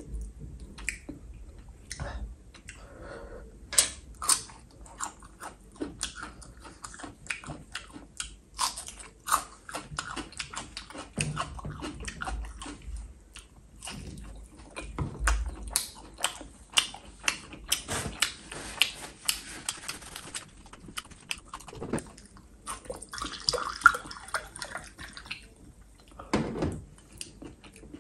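Close-miked chewing and biting of grilled sausage, with irregular wet clicks and mouth noises. Near the end, whiskey is poured from the bottle into a glass.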